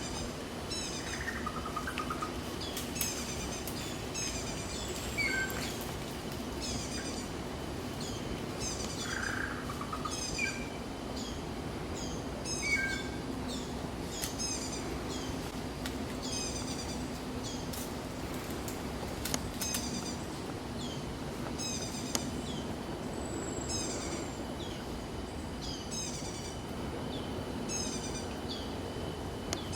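A bird calling again and again, each call a quick falling run of high notes, repeated every second or two. Under it are a steady high whine and a constant rainforest background.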